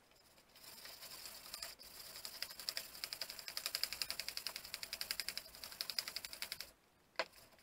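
Sandpaper scrubbing quickly back and forth on a crosscut saw's handle, many short strokes a second in an even rhythm, cutting off suddenly near the end, followed by a single click.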